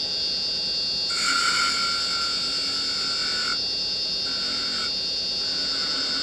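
Wood lathe running as a carbide chisel cuts a small spindle finial, giving a steady hum with a high whine that comes and goes in stretches as the tool is worked.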